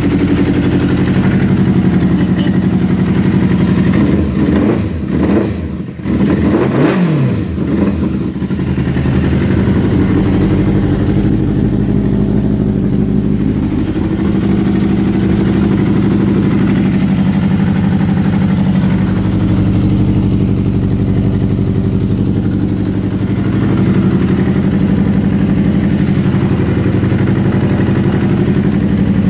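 Suzuki sport motorcycle engine running at idle. The throttle is blipped a couple of times about four to eight seconds in, the pitch rising and falling, then it settles back to a steady idle.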